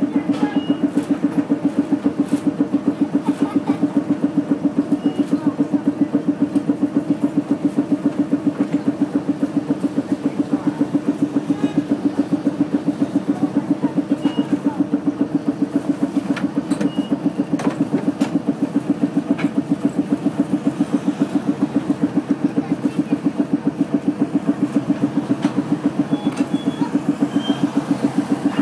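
New Orleans streetcar running with a loud, steady low hum that pulses rapidly and evenly.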